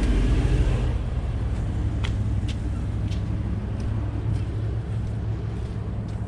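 A vehicle engine idling steadily, with a few light clicks about two to three seconds in.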